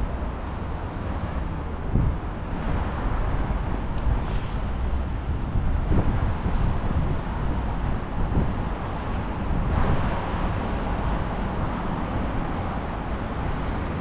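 City street traffic running past, a steady wash of car noise, with wind buffeting the microphone in a deep rumble and a few brief thumps.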